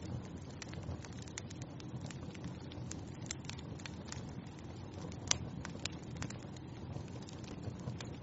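Wood fire crackling in a fireplace: irregular sharp pops and snaps over a low steady rumble of the flames, with one louder pop about five seconds in.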